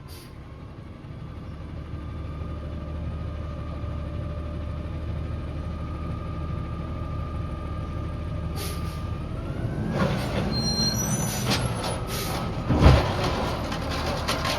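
Peterbilt 320 garbage truck's diesel engine running and growing louder, with a steady whine that climbs in pitch about ten seconds in. Short air hisses sound near the end, and a sharp thump about thirteen seconds in is the loudest moment.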